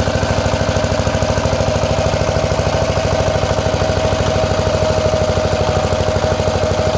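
RK Plus 175 diesel engine running steadily while driving a 3 kW generator, with a rapid, even firing beat and a steady whine above it.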